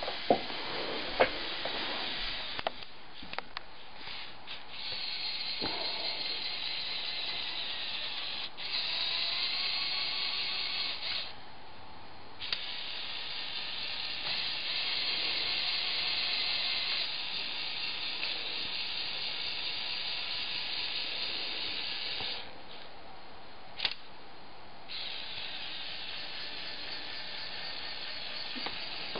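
Lego Technic 8043 excavator's electric motors and plastic gear trains running in several spells, a high whirring that stops and starts a few times. There are a few sharp clicks in the first seconds and one more later on.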